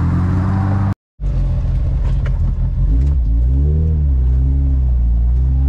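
Car engine running at the roadside, broken off by a brief gap about a second in. Then the Lotus Elise Sport 160's four-cylinder engine heard from inside the cabin on the move: the revs rise and drop once around the middle, then hold steady and climb slightly near the end.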